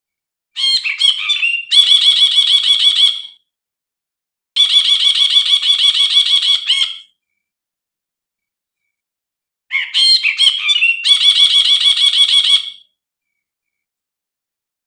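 Brinji (a bulbul) song, recorded for use as a tutor and lure call: three bouts of fast, evenly repeated chattering notes, each lasting about three seconds, with short pauses between them.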